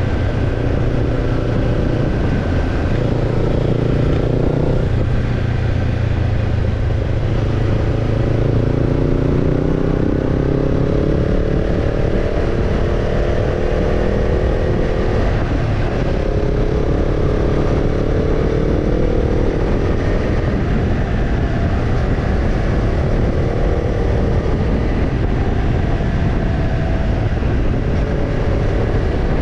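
Kawasaki Ninja 250's parallel-twin engine through a BEET Nassert Evolution Type II titanium slip-on muffler, running with its pitch rising and falling several times as the engine speed changes.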